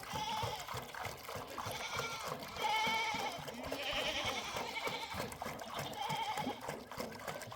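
A mixed flock of sheep and goats bleating, several high, wavering calls overlapping one after another.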